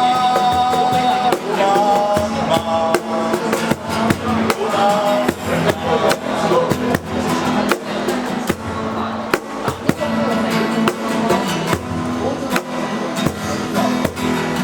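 A band playing: guitar and drum kit keep a steady beat, with a held melody line over it for the first five seconds or so.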